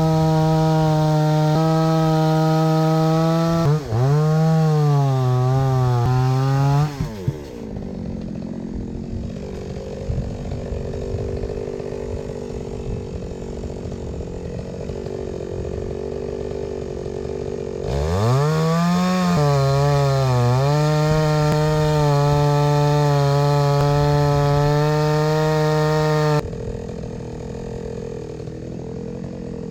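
Two-stroke chainsaw running at full throttle with its pitch sagging and wavering as it bites into a log. It drops to a quieter idle for about ten seconds, revs back up into a second cut about eighteen seconds in, and falls back to idle near the end.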